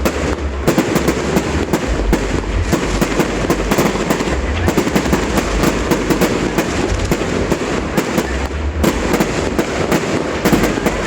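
Fireworks display going off in a rapid, continuous barrage of bangs and crackles, many shells bursting close together.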